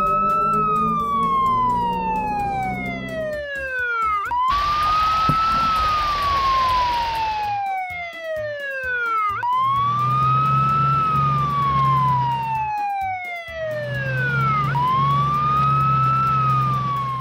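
Fire truck siren wailing in slow cycles: each rises quickly, then falls slowly over about five seconds before starting again. A hiss joins in about four and a half seconds in and lasts about three seconds.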